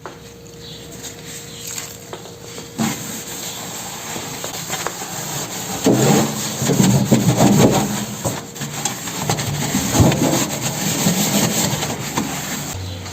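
Scrubbing strokes on a microwave during cleaning: soft rubbing at first, then louder back-and-forth scrubbing from about halfway through, with a sharp knock twice.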